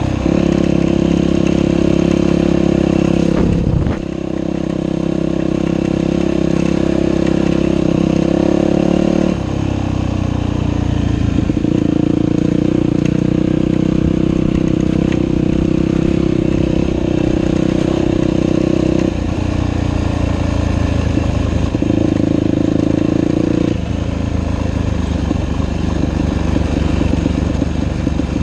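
Dirt bike engine running under way, its note shifting up and down in steps several times as engine speed changes, with a brief drop about four seconds in.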